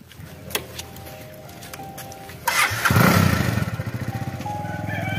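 Motorcycle engine started about two and a half seconds in, catching at once and then idling with a steady, rapid putter.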